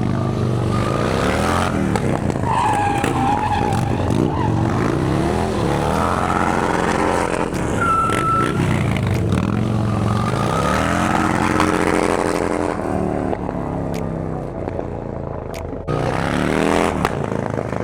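Stunt motorcycle engine revving up and down repeatedly, with the tyre squealing as it spins. The engine drops back for a few seconds, then revs up again near the end.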